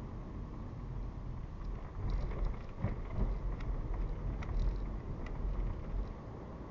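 Car driving on suburban roads, picked up by a dashcam: a steady low rumble of tyre and engine noise, with a scatter of small clicks and ticks in the middle.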